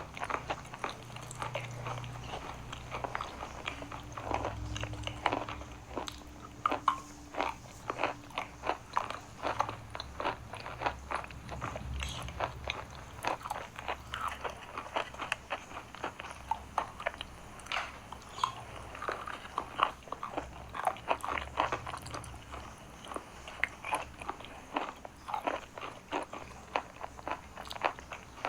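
Biting and chewing dry chalk close to the microphone: dense, irregular crisp crunches.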